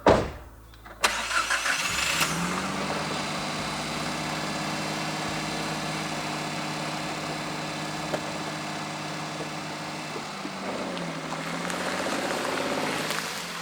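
Car engine starting with a short stutter, then running at a steady idle. About ten seconds in its pitch dips and rises again before fading out.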